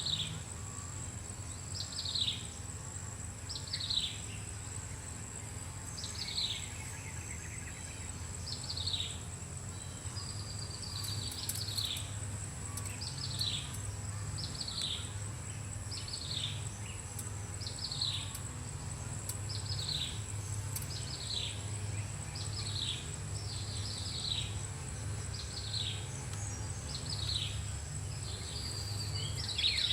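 A bird calling a short downward-sliding note over and over, about once every second and a half, with a quicker run of calls at the very end. A steady high-pitched insect drone runs underneath.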